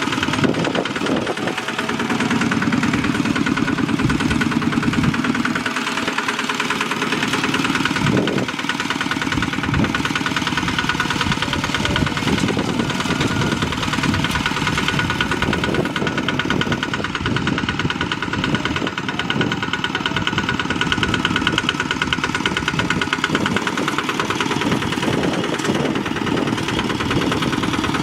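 Bulldozer's diesel engine running steadily while earthmoving, with a rapid, even knocking rhythm.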